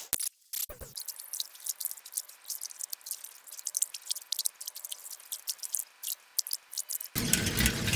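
Sound-effect library clips played at ten times speed: a fast, irregular patter of sharp high clicks and ticks. About seven seconds in, a louder, fuller sound cuts in.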